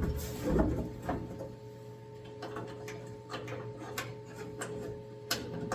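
Scattered light clicks and taps of metal parts being handled as a car hood is held and fitted onto its hinges, over a steady faint hum.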